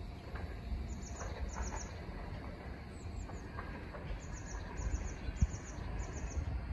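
A freight train's bogie hopper wagons rolling past with a steady low rumble and one sharp knock about five seconds in, while a bird repeats high chirps in quick clusters of three or four.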